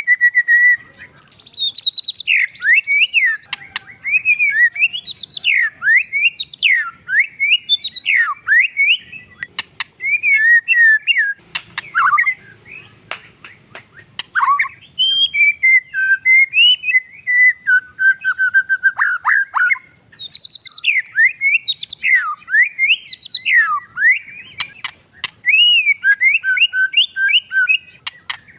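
Oriental magpie-robin (kacer) singing a long, varied song of fast whistled notes that sweep up and down, with only brief pauses.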